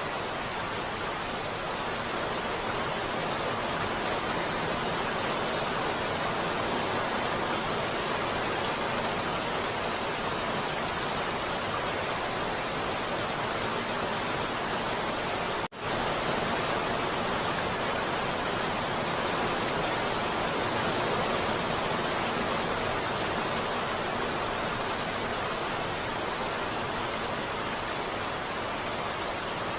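Heavy rain falling steadily in an even, dense hiss, with a split-second dropout about sixteen seconds in.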